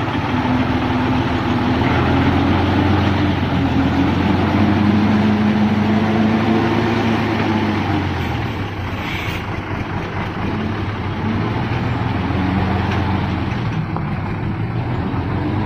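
Diesel engine of a modified Hino six-wheel-drive truck running loud and steady, its engine speed rising and falling several times.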